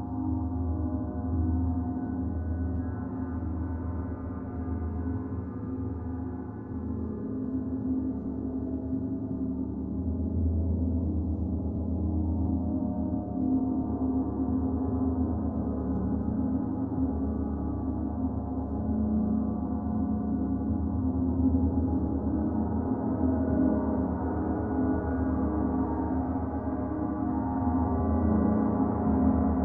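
Large gong played continuously: a dense, sustained wash of many overlapping tones with a deep hum underneath, swelling and ebbing in slow waves.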